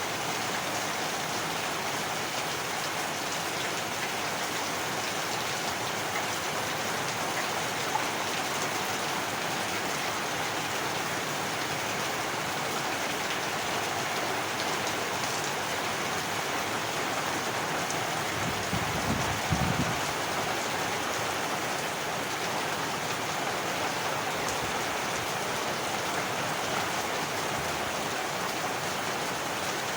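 Heavy rain falling steadily, with a brief low rumble a little past halfway through.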